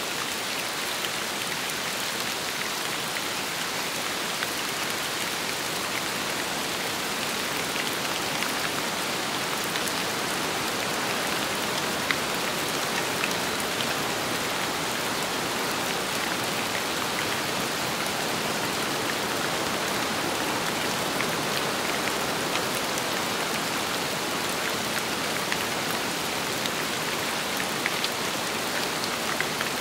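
Steady rain falling on a surface, with sharper individual drops ticking now and then.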